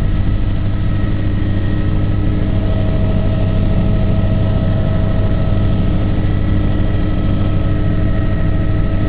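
Aircraft engine running at a steady drone, a deep hum with several steady tones over it.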